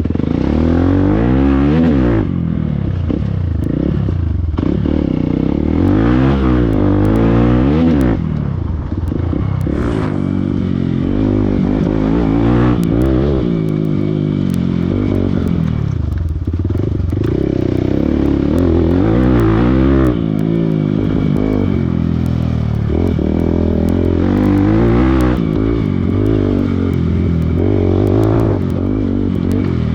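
Motorcycle engine pulling away and riding over rough ground, its pitch rising and falling again and again as the throttle opens and closes and gears change, with some clatter from the bike on the rough surface.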